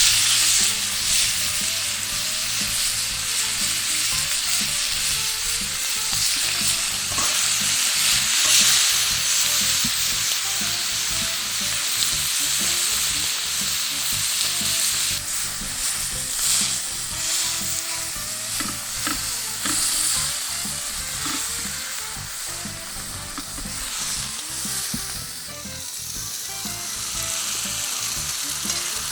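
Food sizzling steadily in a hot frying pan, with a few sharp pops partway through; the sizzle eases a little near the end.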